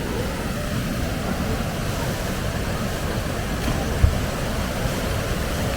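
Steady rushing of a waterfall, with wind buffeting the microphone, and a single brief thump about four seconds in.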